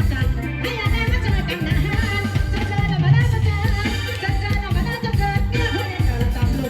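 Electone band music with a drum kit keeping a steady beat and a voice singing the melody.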